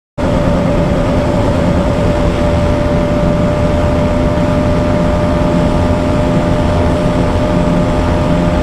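Bajaj NS200's single-cylinder engine held at one steady high pitch near top speed, under a heavy rush of wind on the microphone. The sound cuts in abruptly just after a moment of silence.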